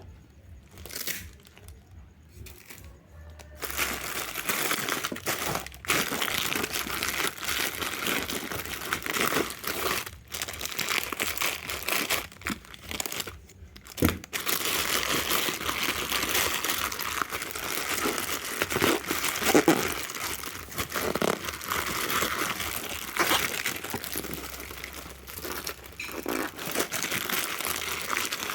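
Packaging being handled and unwrapped: a few light clicks, then from a few seconds in a continuous crinkling and rustling of wrapping, pausing briefly about halfway through.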